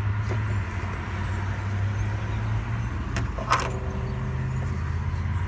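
Road traffic passing close by: a steady low hum of vehicles, with one sharp click about three and a half seconds in.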